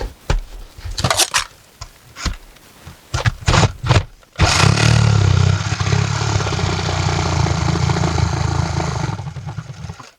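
A few knocks and clicks of handling, then a battery Sawzall reciprocating saw starts about four and a half seconds in and runs steadily for about five seconds, cutting through the roof shingles and sheathing, before it tails off and stops near the end.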